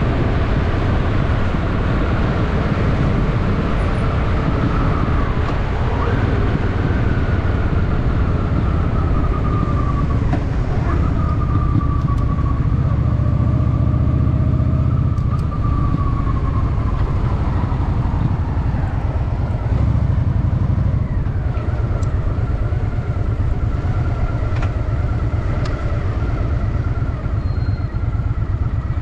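Honda Shadow VT750's V-twin engine running steadily under way, its deep exhaust note holding with only small changes in pitch.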